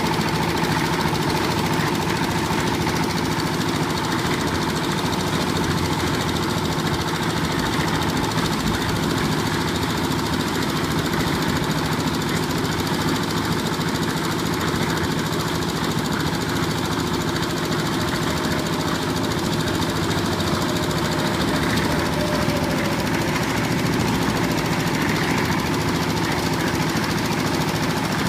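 Old diesel engine driving a cement mixer, running steadily at an even speed with a fast, regular beat.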